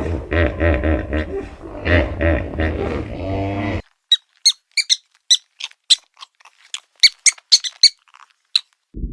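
Animal calls: a pulsed, pitched grunting call repeating about three times a second for nearly four seconds, which cuts off abruptly. After about a second of silence comes a string of a dozen or so short, high-pitched squeaks.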